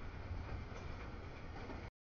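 Double-stack freight train cars rolling past a grade crossing: a steady low rumble of wheels on rail. The sound cuts out abruptly near the end.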